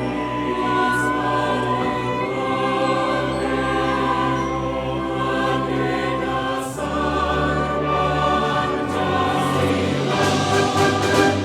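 Choir singing sustained chords with an orchestra accompanying; the bass line shifts about two-thirds of the way through and the texture grows busier and louder near the end.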